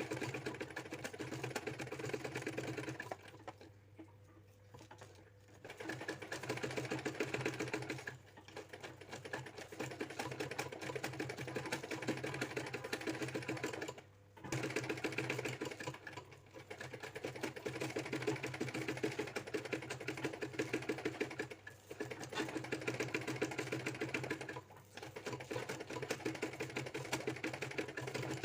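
Ordinary household sewing machine stitching a satin stitch in rapid needle strokes, running in stretches of a few seconds with short stops between, the longest about four seconds in.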